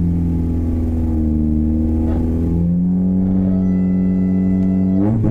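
Car engine heard from inside the cabin, held at a steady raised speed. Its pitch steps up about two and a half seconds in, then climbs sharply near the end as it is revved.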